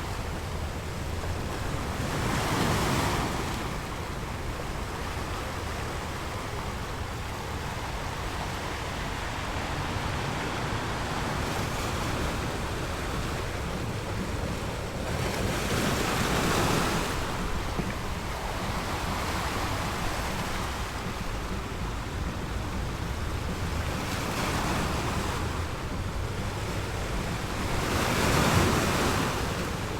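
Ocean waves breaking and washing on a shore, a steady rush that swells as each wave comes in, about four times.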